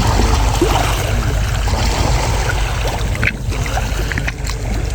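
Sea waves washing along a beach shore: a steady, noisy wash with a low rumble underneath.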